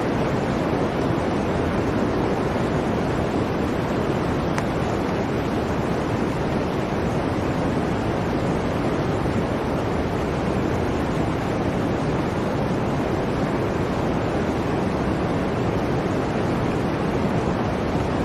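Blizzard wind blowing steadily, a dense rushing noise that stays at an even level throughout.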